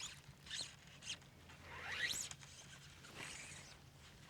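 Fly line zipping through the rod guides in a run of short swishes as it is stripped and cast. One longer swish about two seconds in rises in pitch.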